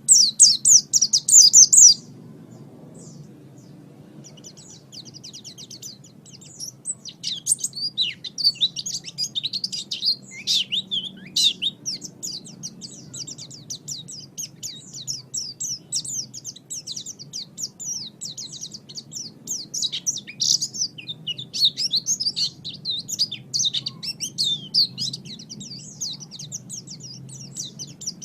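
A white-eye (pleci) singing a long, rapid, high-pitched twittering song of fast chirps and trills, loudest in the first two seconds, then running on in quick bursts. A faint steady low hum lies underneath.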